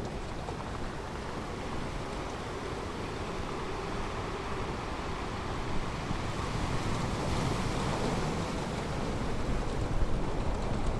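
Ocean surf: waves washing onto the shore in a steady rushing wash that swells louder toward the end.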